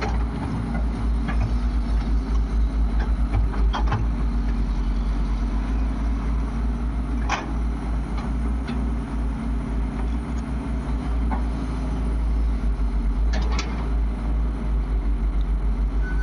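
Heavy diesel engine running steadily, with a few sharp knocks standing out over it.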